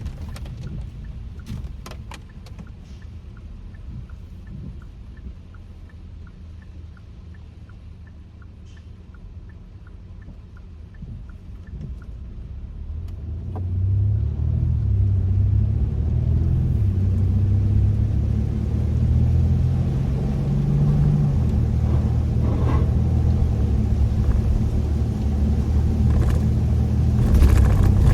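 Inside the cabin of a Kia K5 (DL3): low engine and road rumble. It is quiet at first with a regular ticking like a turn signal. About halfway through it grows louder as the car pulls away and accelerates, with the engine note rising and falling, and a few short knocks near the end.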